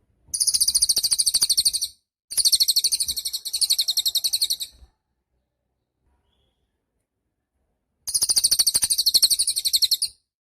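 Cililin songbird giving three bursts of rapid, high, rattling trills, each one to two and a half seconds long, with a long pause before the last.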